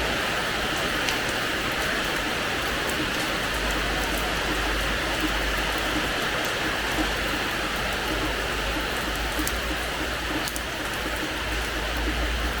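Steady rain falling on a hard terrace floor, an even hiss with scattered sharper drop impacts.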